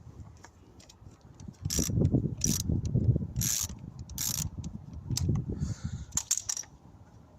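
Ratchet wrench with a 10mm socket undoing a bolt: four short runs of ratchet clicks about a second apart, then a few separate clicks near the end, over low knocking of tool and metal.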